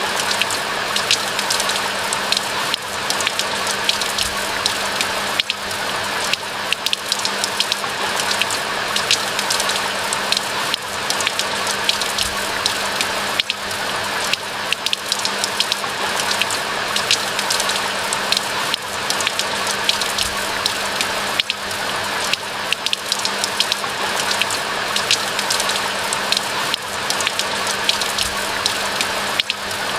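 Steady rain falling in a pine forest, an even hiss thick with the quick ticks of single drops landing close by. A faint steady low hum lies underneath.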